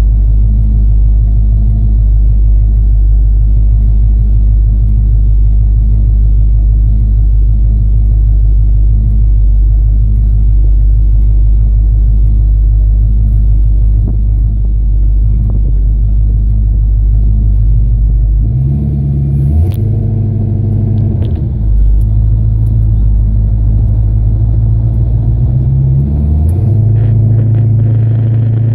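Muscle car engine and exhaust heard from inside the cabin: a steady low rumble while the car waits, then about two-thirds in the engine note rises and shifts as the car pulls away, stepping up again near the end.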